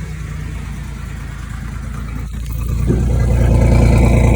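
Vehicle engine idling through an 8 ft extension pipe on its exhaust with a megaphone over the pipe's end, then getting louder about three seconds in as it is given some gas. The megaphone does not make the exhaust any louder.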